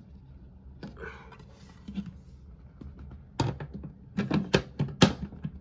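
Sharp plastic clicks and clacks as the drain pump filter area of a front-load washing machine is worked by hand, with light fumbling at first and a quick run of louder knocks in the second half as the part is forced into place.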